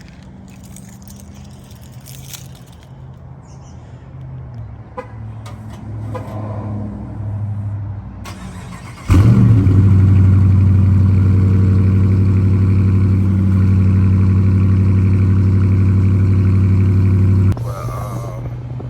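2021 Dodge Charger R/T's 5.7-litre Hemi V8 on its stock exhaust, mid mufflers still fitted, starting up about nine seconds in with a quick flare, then running at a steady, loud idle. The sound drops suddenly to a lower level near the end; before the start there is only a low background hum.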